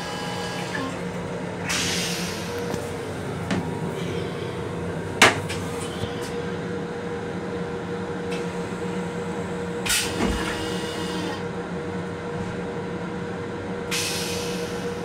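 Steady hum of a Metro-North M7 railcar heard inside its restroom, the running train and ventilation holding two low steady tones. A sharp knock comes about five seconds in and a smaller one near ten seconds, with brief hissing rushes around two and fourteen seconds.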